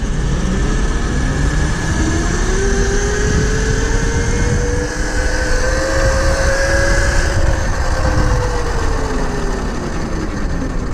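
Tuttio electric dirt bike's electric motor whining while riding, the pitch rising slowly as the bike speeds up and then falling as it slows, over heavy wind rumble on the microphone.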